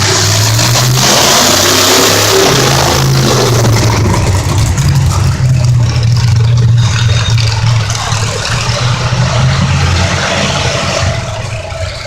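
Monster truck engine running loud and revving, its pitch stepping up and down, then easing off near the end.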